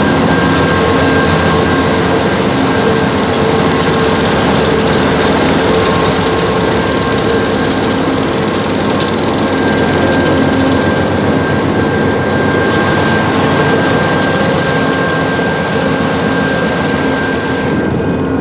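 GE P42DC diesel locomotive running close by while its train stands at the platform. A loud, steady engine drone with a fast ticking pulse and steady whining tones on top.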